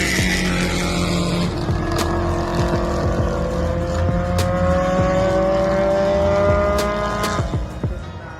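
Racing car engine pulling hard on track, its pitch rising steadily over several seconds before the throttle is lifted near the end, with sharp clicks and knocks scattered through it.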